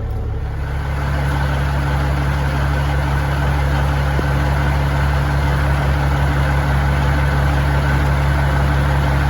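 Caterpillar 3406E inline-six diesel in a Freightliner FLD120 idling steadily, growing a little louder about half a second in and then holding an even note.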